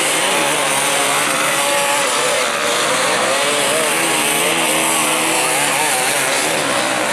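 Enduro dirt bike engines revving, their pitch rising and falling again and again without a break.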